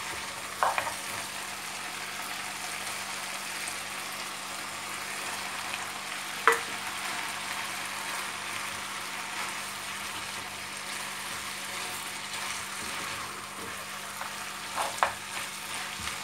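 Chicken pieces with onions and bell peppers sizzling steadily in a pot as a wooden spoon stirs them, with a few sharp knocks of the spoon against the pot.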